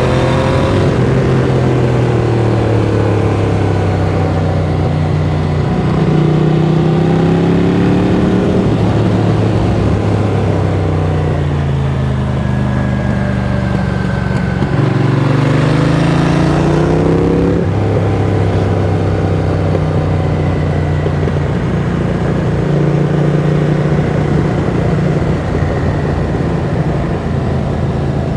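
Ducati Monster 695's air-cooled L-twin engine through a Mivv X-Cone aftermarket exhaust, ridden on the road: the engine note climbs under throttle and falls back several times. One steep climb about two-thirds of the way through ends in a sudden drop, as at a gear change.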